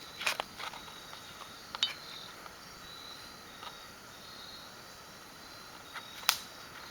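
Faint high insect trilling that comes and goes, with a few scattered sharp clicks, the loudest about six seconds in.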